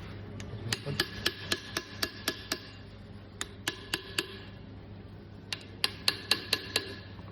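Hammer tapping on the metal dust shield of a Mercedes Vito driveshaft's center support bearing to drive it off. Three runs of quick taps come at about four a second, each with a short metallic ring.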